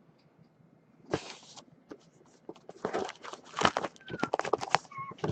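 A sealed trading-card box being opened: a brief tearing sound about a second in, then a run of crinkling plastic wrap and cardboard crackles and clicks, with a few short high squeaks near the end.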